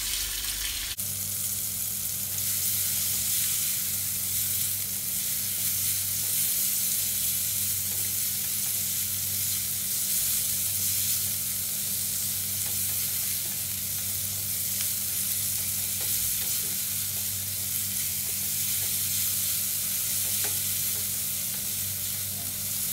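Chopped garlic and sliced onion sizzling in melted margarine in a non-stick pan, stirred with a spatula: a steady frying hiss, with a steady low hum underneath.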